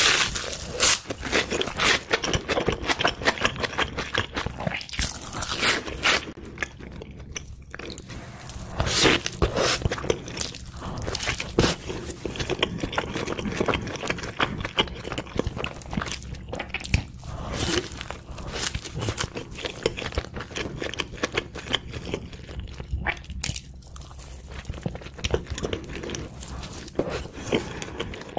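Close-miked eating: many crunchy bites and chewing of fast food, including a burger, in irregular succession.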